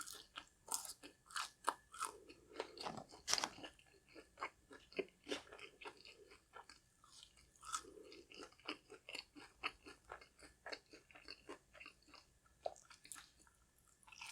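Close-miked chewing of a crispy fried flounder fish sandwich: a run of quick, sharp crunches, the loudest about two and three seconds in.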